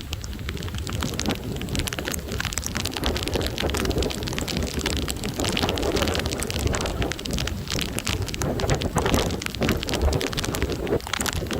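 Heavy thunderstorm rain, with drops striking close to the microphone as a dense crackle and wind rumbling on the microphone. The rain gets a little heavier after the first couple of seconds.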